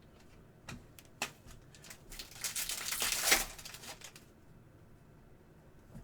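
Foil trading-card pack wrapper being crinkled and torn open, in a rustling stretch about two seconds long in the middle, after two light clicks of handling.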